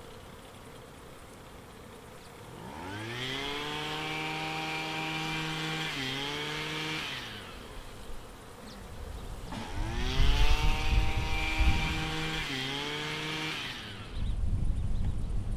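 A motor speeding up twice, each time with a rising whine that levels off, dips briefly and dies away, with low rumbling under the second run.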